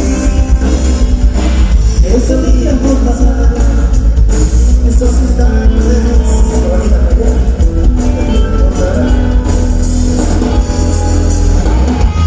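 Live rock band playing loudly, with a singer, guitar and a heavy bass low end.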